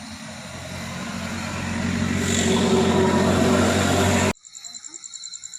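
A motor vehicle's engine running and growing steadily louder as it approaches, then cut off suddenly about four seconds in.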